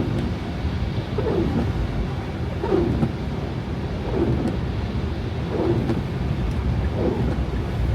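Car cabin on a snowy road: a steady low road and engine rumble, with the windshield wipers sweeping in a regular rhythm about every one and a half seconds.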